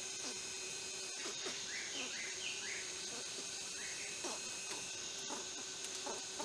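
Rainforest ambience: a steady high-pitched insect drone, a few short rising bird chirps about two seconds in, and scattered faint ticks and taps.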